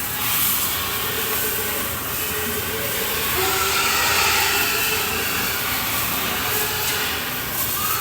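Water jet from a hose or pressure washer spraying steadily, a continuous hiss, as pigs and their pen are washed.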